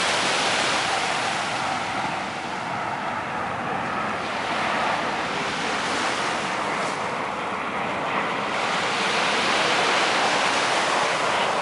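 Black Sea surf breaking and washing along the shore, a steady noisy rush that swells and eases every few seconds.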